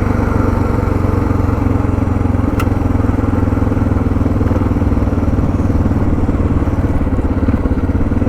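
Suzuki DR650's single-cylinder engine idling steadily, with one sharp click about two and a half seconds in.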